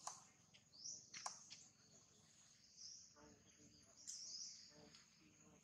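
Near silence with faint, high bird chirps several times, a few short sliding calls over quiet outdoor ambience.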